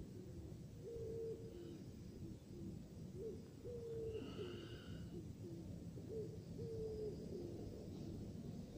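A bird cooing: three phrases of low hooting notes, each a longer note followed by shorter, lower ones.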